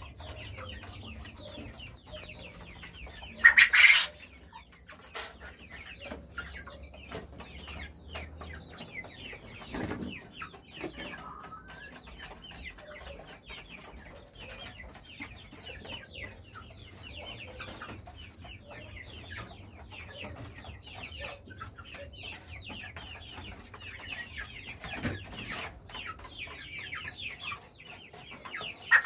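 A flock of caged quail calling, with many small overlapping chirps and one louder call about four seconds in. A low hum stops about eight seconds in, and a few knocks come near 10 and 25 seconds.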